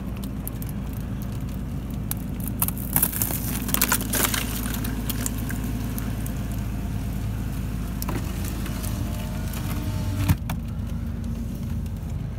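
Pickup truck engine idling steadily, heard from inside the cab. There is a flurry of small clicks and rattles about three to four seconds in, and one sharp click near the end.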